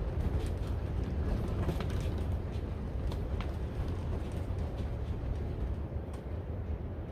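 High wind buffeting a cattle panel greenhouse: a steady, deep rumble of wind, with scattered sharp ticks and snaps from the structure being shaken.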